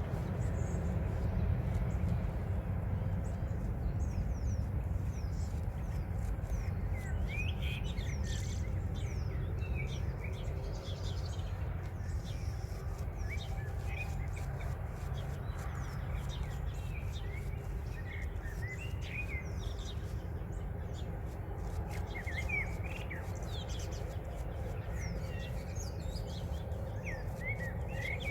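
Dawn chorus of several small birds giving short, quick sweeping chirps and calls, thickening about seven seconds in, over a steady low rumble.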